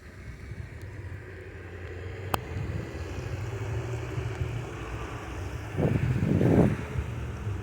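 A Class 802 train approaching through the station, its low rumbling hum building steadily louder. A single sharp click comes a little over two seconds in, and loud low buffeting bursts come about six seconds in.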